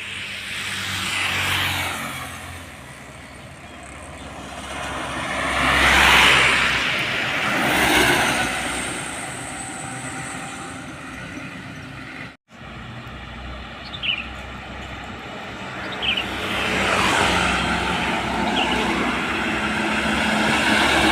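Trucks and other road vehicles passing by: engine and tyre noise swells and fades several times, with an abrupt cut about midway. Two short high squeaks follow the cut.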